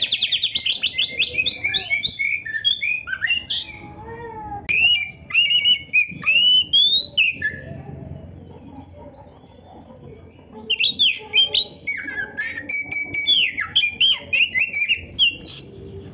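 Oriental magpie-robin (kacer) in full song. It opens with a fast run of repeated notes, then goes into varied whistled phrases that rise and fall. After a pause of about three seconds, a second burst of varied phrases follows.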